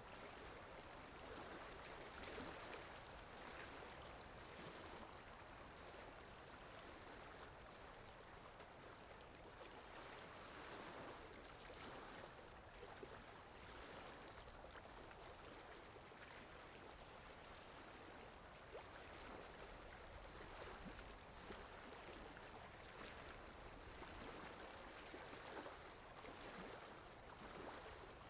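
Faint, steady rain falling, an even hiss that swells and eases gently every few seconds.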